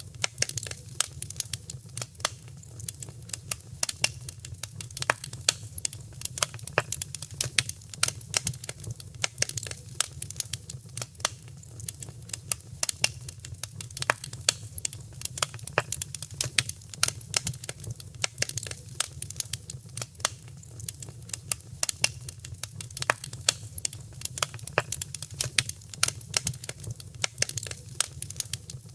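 Wood fire crackling in a fireplace: a constant scatter of sharp pops and snaps, several a second, over a low steady rumble of the flames.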